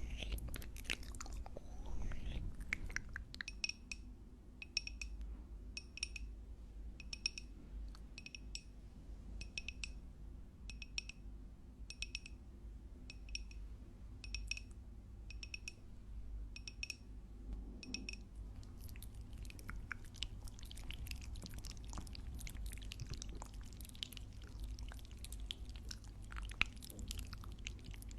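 Close-miked ASMR chewing and biting, with wet crackling mouth sounds. Through the middle there is a steady run of sharp clicks, a little more than one a second.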